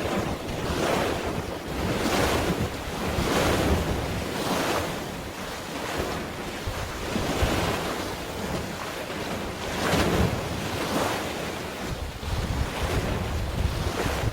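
Sea waves and wind, with gusts buffeting the microphone in a low rumble; the noise surges and eases every second or so.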